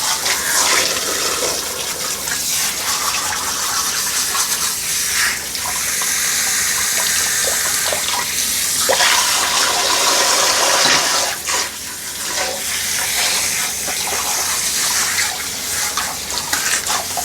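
Shower water running and splashing over a dog being bathed, going on without a break and swelling and easing as the spray moves.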